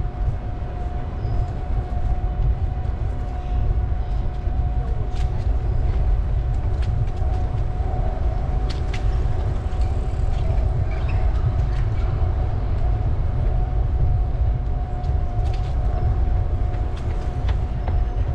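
Steady low rumble of riding a bicycle: wind and rolling noise on the microphone, with a faint steady whine and scattered light clicks.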